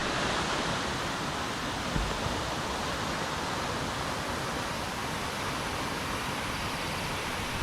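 Steady rushing of Aber Falls, a waterfall dropping about 120 feet onto rocks. A faint bump comes about two seconds in.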